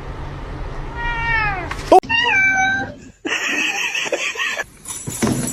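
Domestic cat meowing: one drawn-out meow falling in pitch about a second in, then a second, shorter meow.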